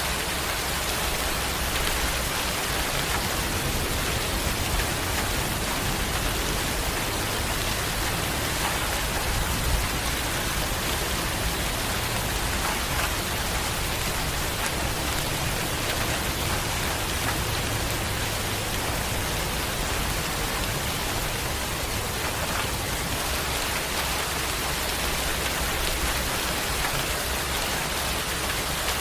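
Steady rain falling on a surface, an even hiss of many drops that does not let up.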